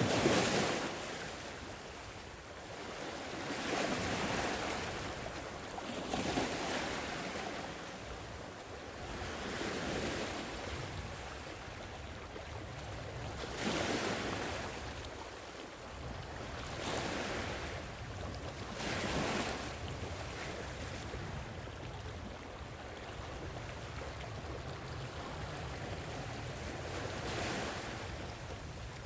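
Sea waves washing onto the shore, each swell of surf rising and falling away every few seconds. A low steady rumble sits underneath in the second half.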